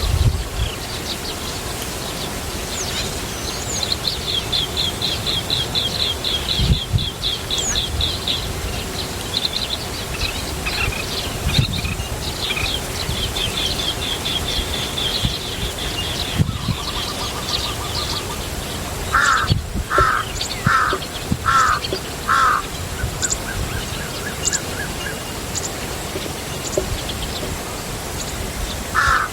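Birds calling: long runs of fast, high repeated notes, then a series of five loud, harsher calls about a second apart, with low rumbling bumps underneath.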